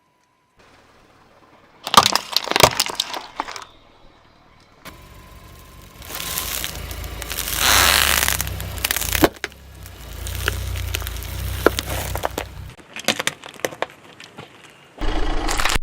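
A car tyre rolling slowly over brittle objects and crushing them: a series of sharp cracks, snaps and crunches over the low rumble of the car creeping forward, in several separate takes.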